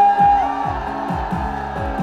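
Live trot band backing music with a steady kick-drum beat; a long held high note ends about half a second in.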